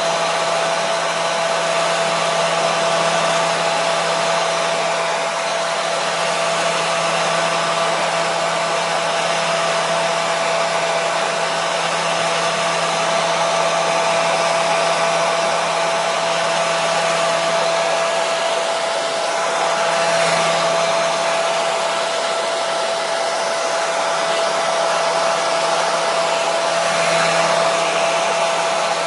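Hair dryer running continuously: a steady blowing rush with a constant motor whine, played as white noise to soothe a colicky baby.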